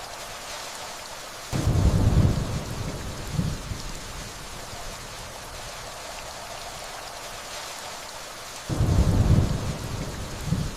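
Steady rainfall with distant thunder: two low rumbles about seven seconds apart, each starting suddenly and rolling on for a couple of seconds with a smaller after-rumble.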